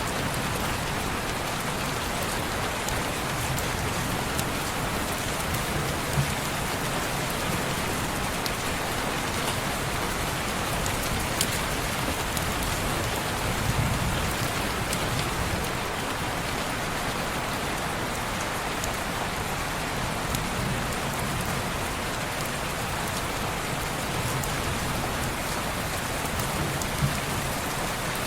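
Steady rain falling on window glass, a continuous even hiss, with a few faint sharp ticks here and there.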